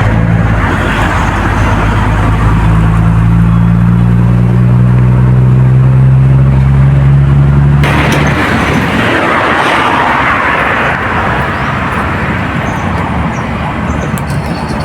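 A large engine drones steadily and then cuts off abruptly about halfway through, leaving a steady rushing noise.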